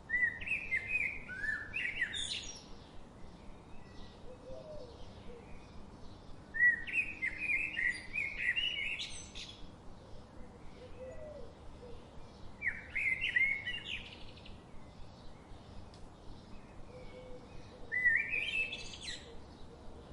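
A songbird singing short phrases of quick, rising, chirping notes, four times with pauses of a few seconds between, over a faint steady ticking background.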